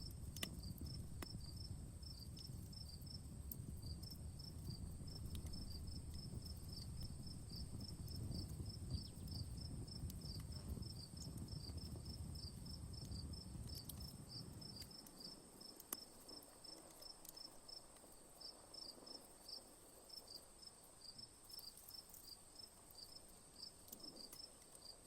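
Crickets chirping in quick repeated pulses over a steady high insect trill, with sparse sharp pops from a crackling wood fire. A low rumble underneath drops away about fifteen seconds in.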